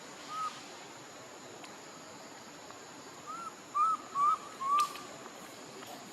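Five short, arching calls at about the same pitch: one early and four in quick succession about three to five seconds in, over a steady hiss.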